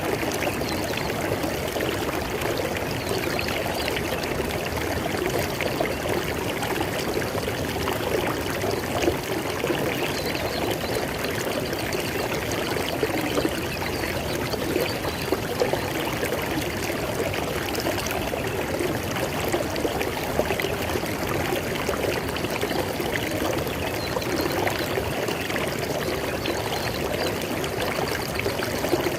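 River water flowing over rocks in a steady rush, with fine splashing and gurgling detail.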